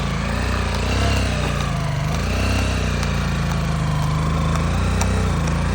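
Motorcycle engine running with fast, even firing pulses, its pitch rising and falling a little as the throttle varies.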